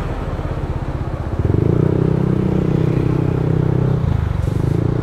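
Yamaha NMAX 155 scooter's single-cylinder engine running on the road, heard from the rider's seat. A louder steady engine note sets in about a second and a half in and eases off near four seconds.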